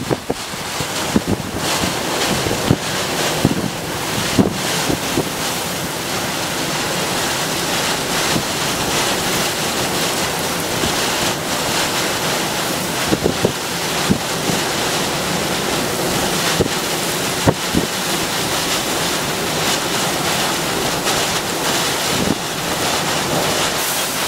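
Storm wind rushing and buffeting the microphone in a steady loud noise, with scattered short knocks.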